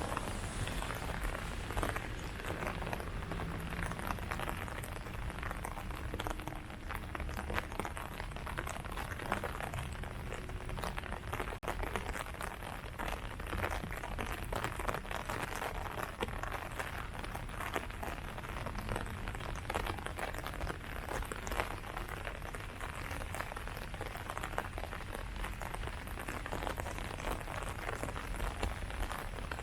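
Steady rain falling on leaves, an even hiss with many individual drops pattering through it.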